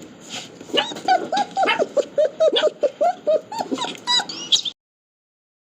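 Dog giving a quick run of short, high yelps, about three a second, that stops abruptly near the end.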